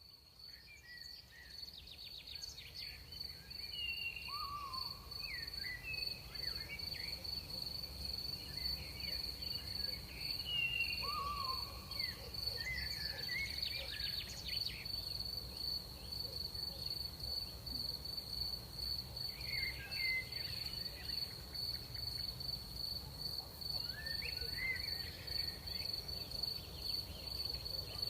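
Crickets trilling on one steady high note, with short gliding chirps every few seconds and a low rumble underneath. The sound fades in over the first few seconds.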